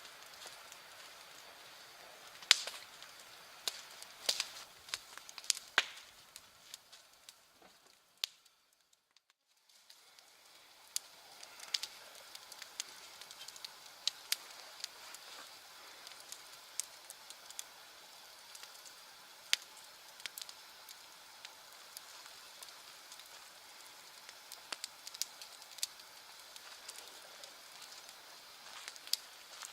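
Wood bonfire crackling, with irregular sharp pops over a steady hiss. The sound drops out for a moment about eight seconds in, then the crackling resumes.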